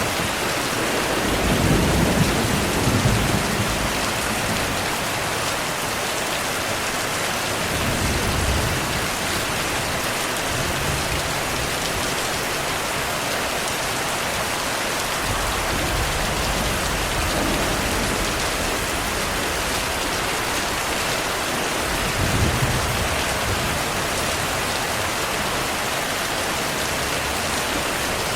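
Steady heavy rain falling, with low rolls of distant thunder rumbling in several times. The strongest rumble comes a couple of seconds in, and softer ones come about a third of the way through and again about three-quarters through.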